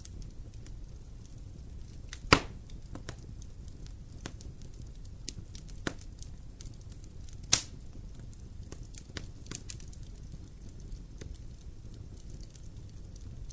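Wood fire in a fireplace crackling: a steady low rumble of flames with frequent small crackles, and two loud sharp pops from the burning logs, about two seconds in and again about five seconds later.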